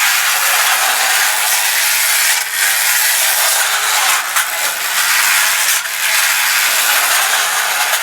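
Clockwork motor of a Technofix tin-plate toy shunting train running, a steady loud whir and rattle as the train runs along its tin track.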